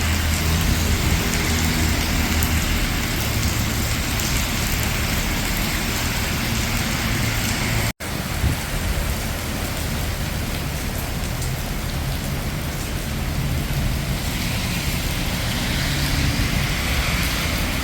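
Steady rain falling in a city street, with a low rumble of car traffic passing on the wet road. The sound drops out for an instant about eight seconds in, then carries on.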